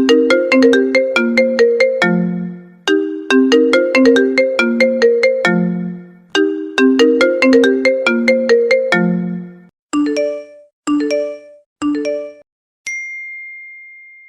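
iPhone ringtone: a melody of short plucked, marimba-like notes that repeats about every three and a half seconds. Just before 10 s it gives way to four short chime notes in quick succession, then near the end a single high ding that rings on and slowly fades, like an iPhone notification tone.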